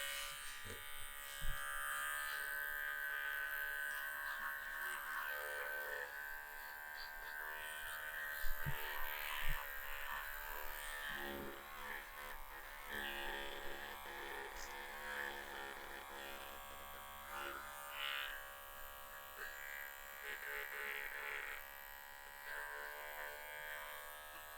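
Small handheld pet clippers buzzing steadily as they clip fur from between a dog's paw pads, the buzz wavering in strength as the blade works into the fur.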